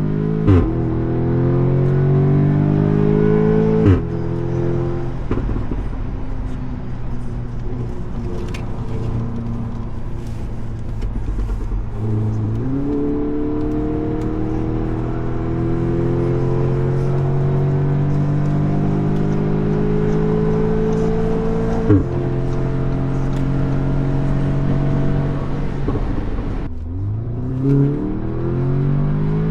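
Tuned Audi S3's turbocharged four-cylinder engine through a full Milltek exhaust, pulling hard through the gears. The engine note climbs steadily and drops sharply at each upshift, about 4 and 22 seconds in, each with a short bark. About 12 seconds in it jumps up and climbs again, and near the end the revs fall and then rise once more.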